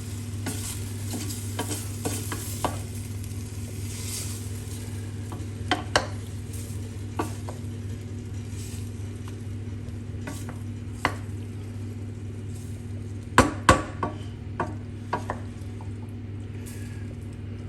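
A spoon stirring a pan of chicken, onion and pasta mixed with tomato paste, scraping and knocking against the pan at irregular intervals with a light sizzle, and two louder knocks about three-quarters of the way through. A steady low hum runs underneath.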